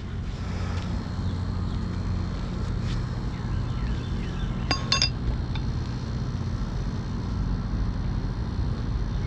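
Two quick metallic hammer strikes on a roofing nail, each with a short bright ring, about five seconds in, with a fainter tap a couple of seconds earlier. A steady low rumble runs underneath.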